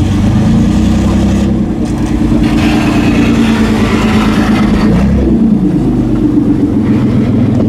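A car engine and exhaust running loudly at low revs, with a brief rise and fall in engine pitch about five seconds in.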